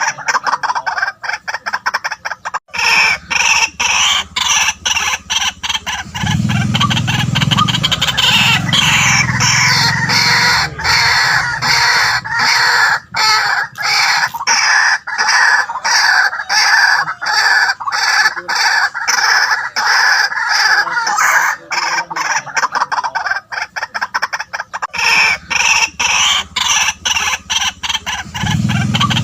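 White-breasted waterhen calling loudly, a long run of rapidly repeated harsh notes. A lower, deeper sound joins in twice.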